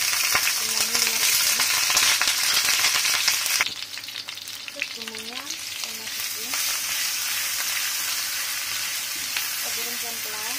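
Whole spices (lemongrass, ginger, leaves) sizzling in hot oil in a nonstick wok. About three and a half seconds in, the sizzle drops sharply and goes on more quietly as the ground shallot, garlic and candlenut paste goes in and is stirred with a spatula.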